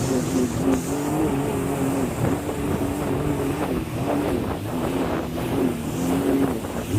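Jet ski engine running at speed, its pitch wavering up and down as it rides over the water, with water spray and wind noise on the microphone.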